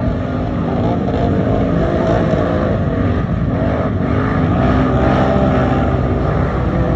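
Off-road race vehicle engines running and revving, their pitch rising and falling.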